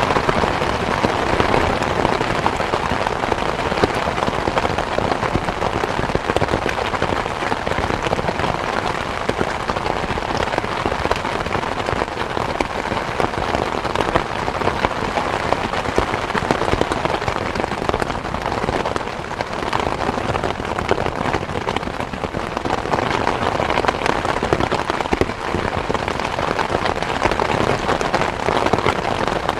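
Rain falling steadily, a dense, even patter of drops with no lulls.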